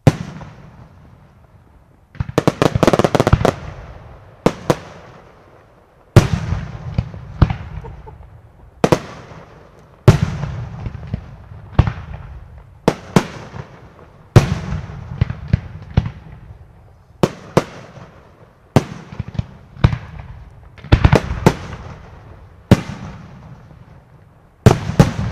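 Aerial fireworks shells bursting one after another, a sharp bang every second or two, each trailing off in an echo. Several times the bangs come in quick clusters of rapid pops.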